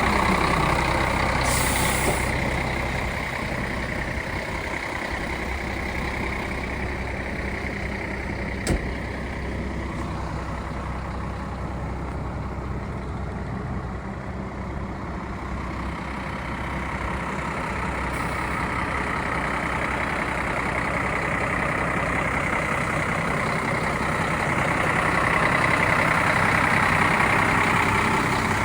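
Scania P114 truck's diesel engine idling steadily, with a brief hiss about a second and a half in and a single sharp click near the middle; it grows somewhat louder toward the end.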